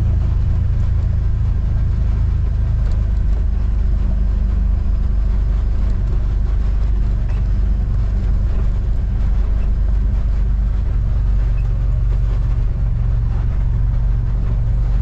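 Vehicle engine running steadily under way, a constant low drone.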